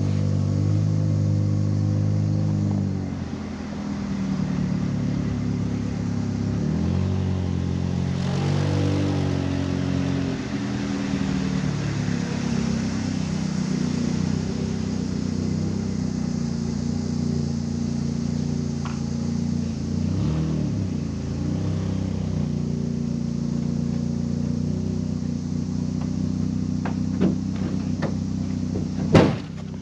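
Ford Ranger pickup's engine running as the truck is driven, its pitch rising and falling several times with the throttle. A sharp knock comes near the end, and then the engine goes quieter.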